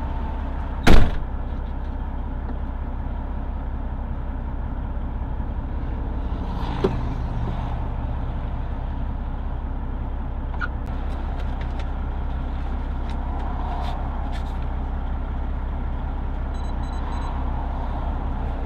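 Semi truck's Detroit Diesel engine idling steadily, with a single loud bang about a second in and a lighter click near the middle.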